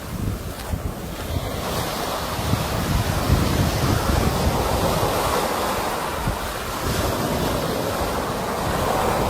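Sea waves breaking and washing ashore, the surge building over the first few seconds and then easing back, with wind buffeting the microphone.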